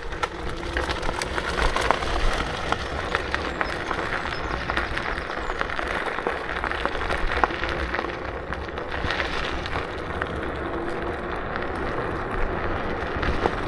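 KuKirin G2 electric scooter being ridden: tyre and wind noise with many small knocks and rattles over the path, and a faint steady whine underneath.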